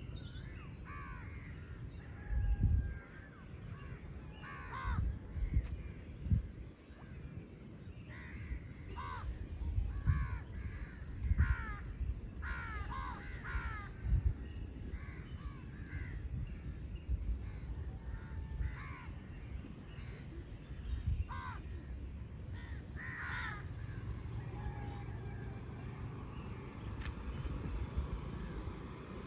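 Crows cawing again and again, with other birds calling, over a low uneven rumble with occasional dull thumps.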